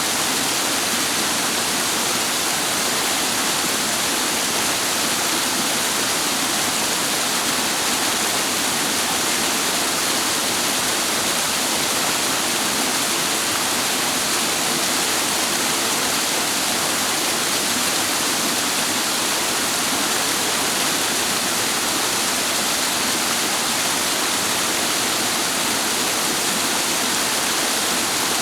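Mountain water rushing and splashing over rocks in a steady, unbroken roar.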